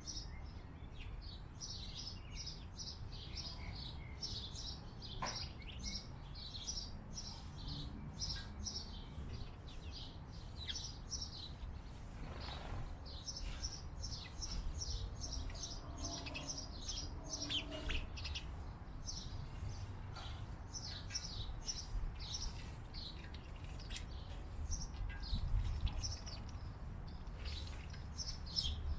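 Small birds chirping and twittering: many short, high chirps in quick succession, over a steady low rumble.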